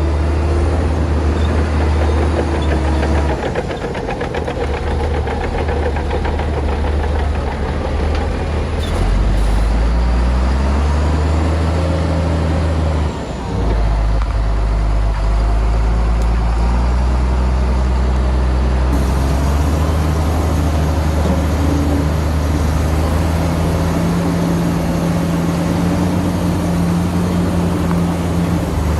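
Heavy diesel engine of earthmoving machinery running under changing load, its revs rising and falling several times, with a brief drop about halfway through.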